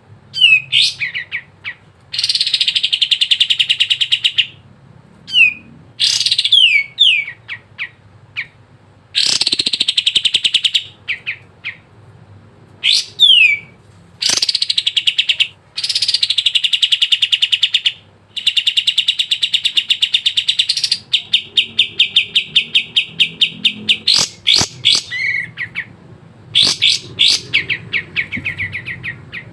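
Kapas tembak singing in full song: fast trilled phrases of rapidly repeated notes, one to three seconds long, broken by quick falling whistles, with a longer unbroken trill a little past the middle.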